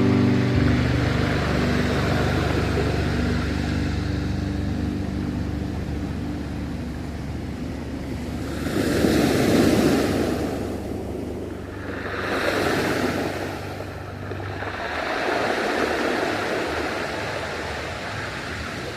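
Ocean waves washing ashore, the surf swelling three times in the second half. At first a low held note from the background music lingers under the surf.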